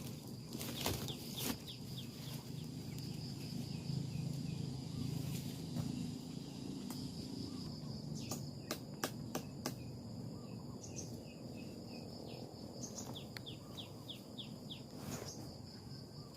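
Forest ambience: a steady high insect drone with runs of short bird chirps, over a low steady rumble. A few sharp clicks or knocks come about halfway through.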